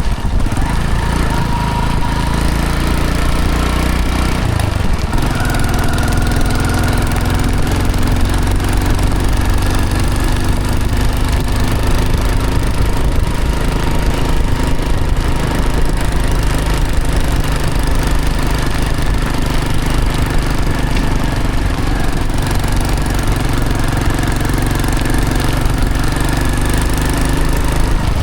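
1995 Hero Honda CD100 DLX's single-cylinder four-stroke engine running steadily while the motorcycle is ridden, its note changing about five seconds in.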